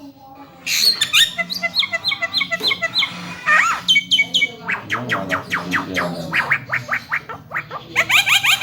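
Javan myna (jalak kebo) singing: rapid runs of down-slurred whistled notes and harsh squawky calls, starting a moment in and running on in quick repeated series.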